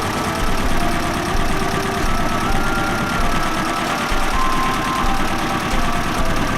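Engine of a 1961 Kubota tractor idling steadily, with a fast, even knocking beat.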